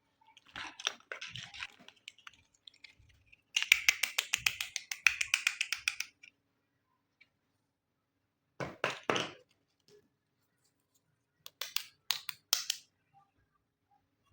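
Small plastic toy pieces and packaging handled close to the microphone: rustling, then a rapid run of crackling clicks lasting a couple of seconds, and later a few short crinkling bursts.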